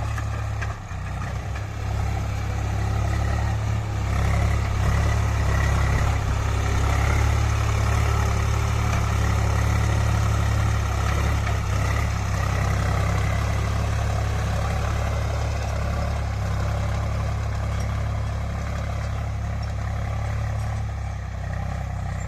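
Swaraj 735 tractor's three-cylinder diesel engine running steadily, getting a little louder about two to four seconds in and then holding.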